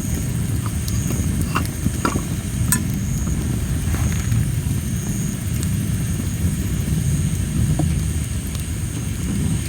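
Tree-of-heaven (ailanthus) wood fire burning: a steady low rumble with scattered crackles and pops, bunched around two to three seconds in and again near the end. Insects trill high and steady behind it.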